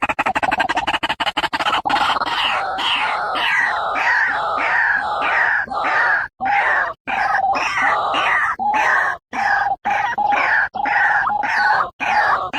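White-breasted waterhen calling: a fast stuttering rattle of notes, then from about two seconds in a run of loud, harsh repeated calls, about two a second.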